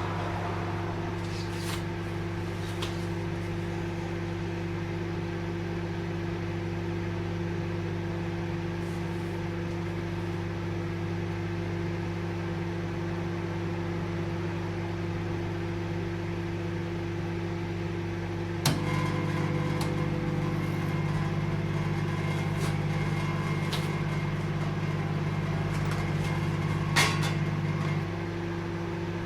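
Microwave oven running with a steady electrical hum. About two-thirds of the way through a click sounds and the hum grows louder and lower for several seconds, then falls back to its earlier level, with a few light ticks along the way.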